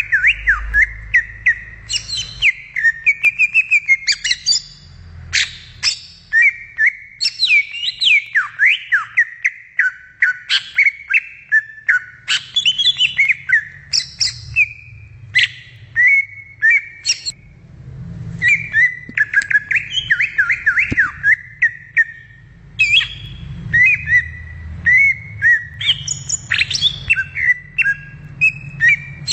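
Green leafbird (cucak ijo) singing a long, varied song of quick chirps, slurred whistled notes and rapid trills, with brief breaks a little past the middle.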